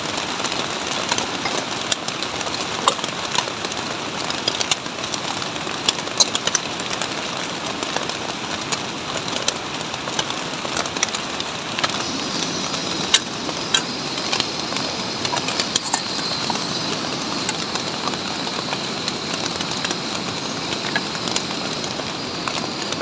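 Heavy rain falling steadily, with many sharp taps of individual drops landing close by.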